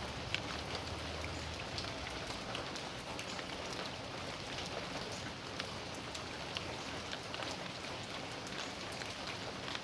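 Steady rain falling in a backyard, an even hiss with many close, sharp drops ticking on surfaces.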